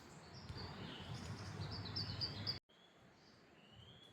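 Birds calling over a low outdoor rustle, with a quick run of short high chirps about two seconds in. The sound cuts off abruptly partway through, and a faint single whistled call rises near the end.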